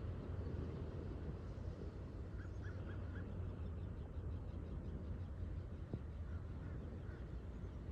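A bird calls four short times in quick succession about two and a half seconds in, with a couple of fainter calls later, over a steady low rumble of wind and water at the shore. A single sharp tick comes near the six-second mark.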